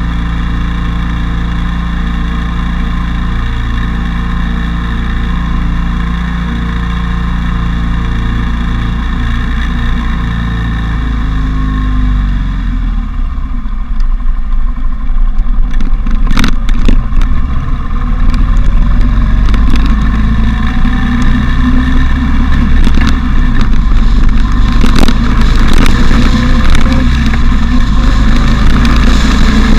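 Motorcycle engine running at a steady note, which drops about twelve seconds in; the bike then accelerates, the engine climbing in pitch twice, under louder rushing wind noise.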